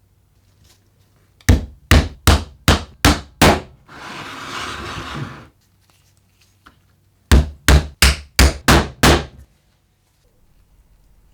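Hammer blows in two quick runs of six strikes, about three a second, with a short rasping noise in between.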